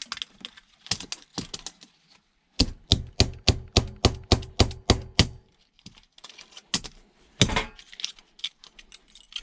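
Sharp clicks and snaps of hand tools working on a small relay circuit board, with a quick, even run of about a dozen clicks at roughly four a second in the middle and a few more near the end.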